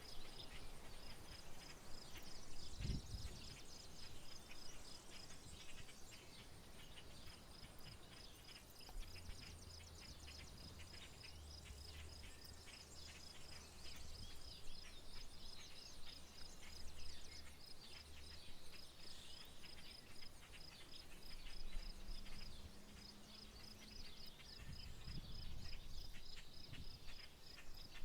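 Rural wildlife ambience: a steady high, evenly pulsing insect trill with many short bird chirps scattered over it. A faint low hum comes in for several seconds in the middle.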